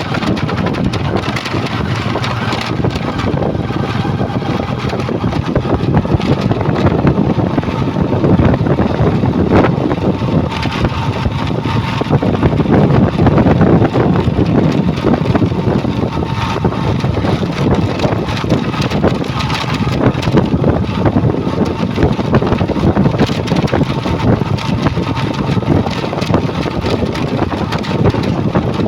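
Heavy truck diesel engine running steadily, swelling in level about halfway through.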